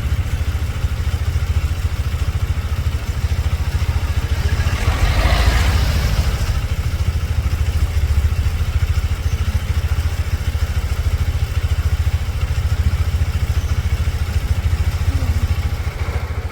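A vehicle engine running steadily, a low pulsing rumble, with a brief louder rush about five seconds in.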